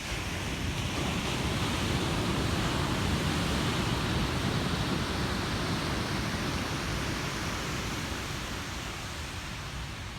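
Ocean surf: a wave breaking and its wash running up the beach, a rushing hiss over a low rumble that swells in the first couple of seconds and slowly dies away.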